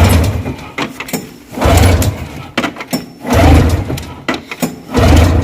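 Recoil starter pulled four times on a Polaris 340 Indy Lite snowmobile's two-stroke engine: each pull is a short loud burst of the engine turning over, about every second and a half. The engine cranks but does not catch.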